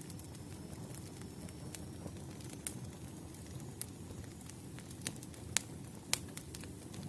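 Firewood burning in a campfire: a steady low rush of flame with scattered sharp crackles and pops. The snaps come more often and louder in the second half.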